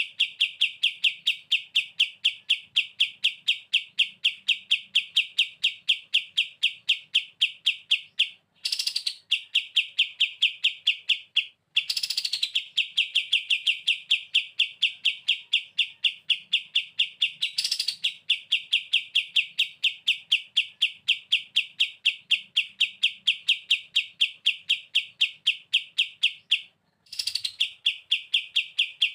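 Kapas tembak songbird singing its rapid rattling 'bren' trill: fast, evenly repeated high notes at about five a second, in long phrases broken three times by short pauses, each phrase opening with a higher swept note.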